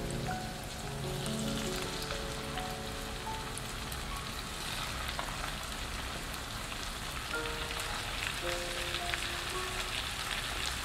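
Green beans, onion and raw chicken pieces sizzling in a hot frying pan. The sizzling grows stronger about two seconds in, with small crackles and pops. Background music plays over it.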